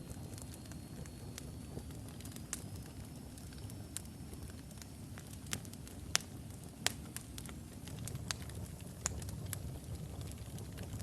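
Logs burning in a fireplace: a steady low rumble of flames with scattered sharp crackles and pops, two loud pops just past the middle. A faint thin high whistle runs through the first half.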